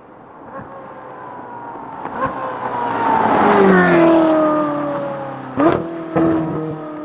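Ferrari 458's naturally aspirated V8 through a titanium valved exhaust with free-flow front pipes, driving past. It grows louder to a peak just past the middle, falling in pitch as it goes by, then two sharp bursts near the end.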